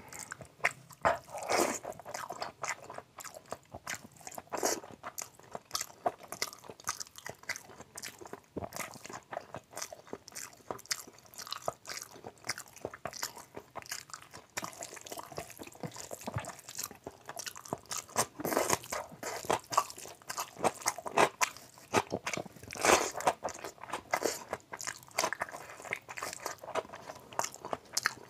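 Close-miked eating sounds: a man chewing and biting mouthfuls of curry-soaked rice and fatty mutton eaten by hand, making irregular wet clicks and squelches.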